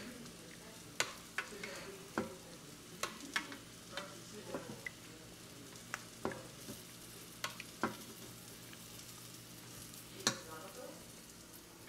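Crab cakes frying in a pan with a faint, steady sizzle, broken by scattered light clicks and knocks of a utensil against the pan.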